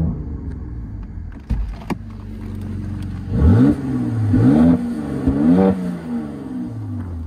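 2019 Mercedes-AMG C43's 3.0-litre twin-turbo V6, exhaust in Sport Plus mode, revved repeatedly while the car stands still: a series of quick rises and falls in engine pitch, the strongest around three and a half to six seconds in. Two sharp clicks come about a second and a half in.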